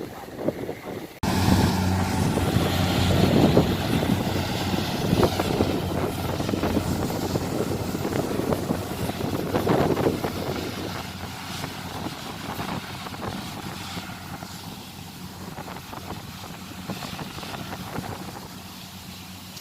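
An engine running steadily under heavy wind noise on the microphone. The sound comes in abruptly about a second in and slowly fades over the second half.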